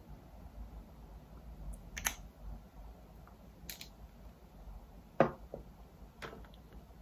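Four small, sharp clicks and taps from handling makeup products, a lip tint and its applicator, the loudest about five seconds in.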